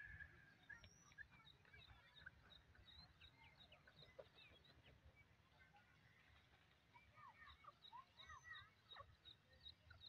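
Faint bird chirps: short high peeps repeating about three times a second, with a cluster of brief sliding calls late on.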